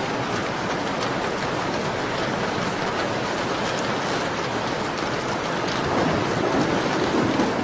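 Steady rain pattering on a window, with faint crackling ticks from a wood fire in a fireplace. The rain swells louder for a moment near the end.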